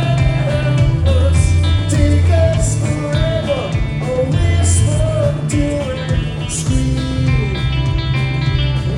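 Rock band playing live, led by guitar over a steady bass and drums, with a melody line bending up and down in pitch.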